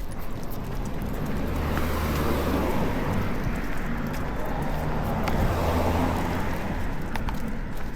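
A car passing on the street, its engine and tyre noise swelling for a few seconds and then fading.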